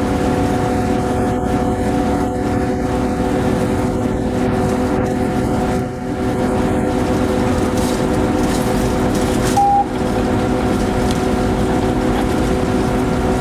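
Steady noise inside a moving locomotive's cab: a running drone with several steady tones over a rumble. About ten seconds in, a short single beep sounds.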